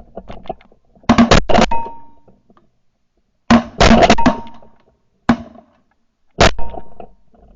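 Shotgun blasts from several hunters firing at ducks: about nine shots in quick bunches, three near the start, four in a rapid string in the middle, then two single shots.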